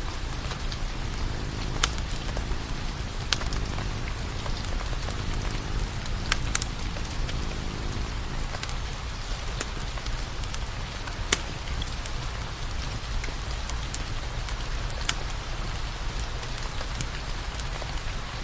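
Wood fire crackling: a steady hiss and low rumble, with sharp pops of burning firewood scattered every few seconds.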